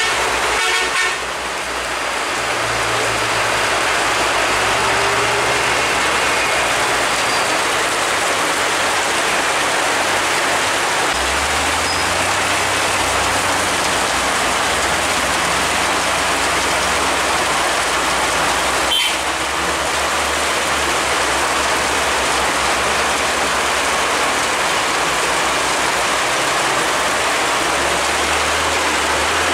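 Steady heavy rain hiss with a heavy vehicle's engine running low underneath; the engine note grows stronger about eleven seconds in. A single sharp knock comes about two-thirds of the way through.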